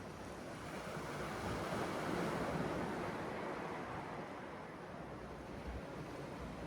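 Sea waves washing onto the shore: a rushing surge that swells about a second and a half in and then eases off.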